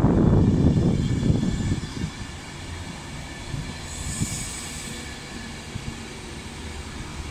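Avanti West Coast Class 390 Pendolino electric train running past close along the platform. A loud low rumble as the front passes falls away within about two seconds to a quieter steady hum and whine as the coaches roll by, with a brief high hiss about four seconds in.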